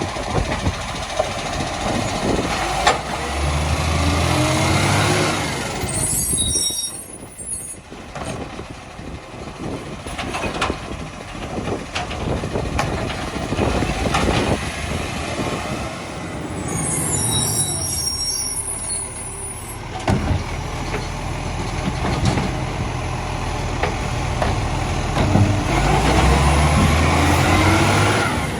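Side-loader recycling truck working: the diesel engine revs up three times as the hydraulics whine with a rising pitch, and there are short hisses of air after the first two revs.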